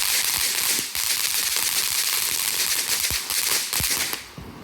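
A burning firework giving off a dense, loud hissing crackle with scattered sharper pops, which cuts off suddenly about four seconds in.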